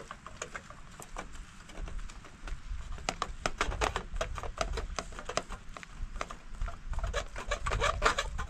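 Hamburger patties frying in a pan over a campfire, crackling with many small sharp pops and spits as the meat starts to sizzle.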